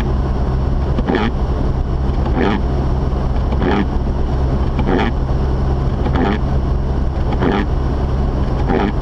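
Mazda RX-8 driving, heard from inside the cabin: its rotary engine and the tyres make a steady low drone. A windscreen wiper swishes across the glass about every second and a quarter, clearing snow.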